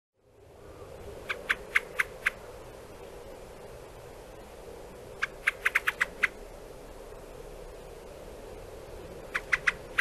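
Bird calling in short, sharp, clicking notes, given in three quick runs of about three to seven notes, four or five a second, over a faint steady hum.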